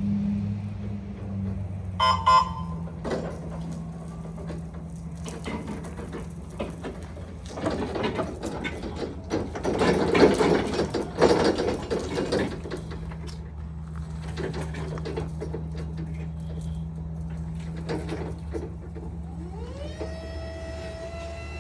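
Hyster N45ZR2 electric reach truck running, with a steady low hum and scattered clicks and clattering that are loudest about halfway through. Near the end an electric motor whine rises in pitch and then holds steady.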